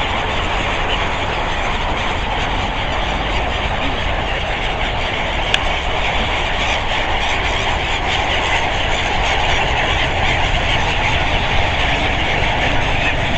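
Steady noise of road traffic passing along a busy seafront road, with one short click about five and a half seconds in.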